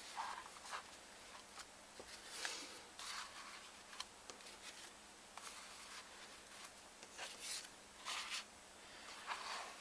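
Faint rustling and scraping of paper and cardstock being handled, in several short bursts, as pages and tags of a handmade paper folio are moved and turned.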